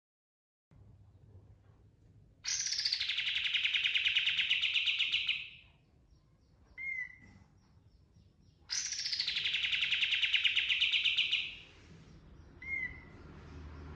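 Kapas tembak bulbul singing: two long, rapid rolling trills of about three seconds each, each opening on a high note that drops into the trill. A short single note follows each trill about a second later.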